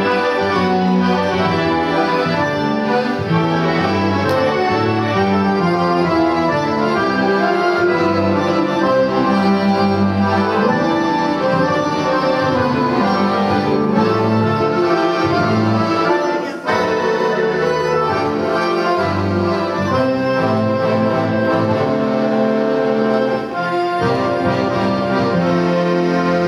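An accordion orchestra, many accordions together, playing a Christmas piece in full held chords over a moving bass line, with one short break about two-thirds of the way through.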